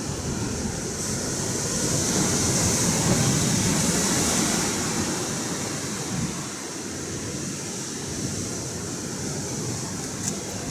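Atlantic Ocean surf: waves breaking and washing in with a low rumble and a hiss, swelling louder a couple of seconds in and then easing back.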